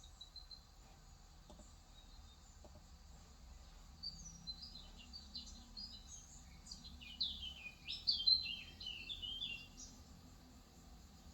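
A bird twittering in quick runs of high chirps. It starts about four seconds in, is loudest around eight seconds in, and fades out near the end.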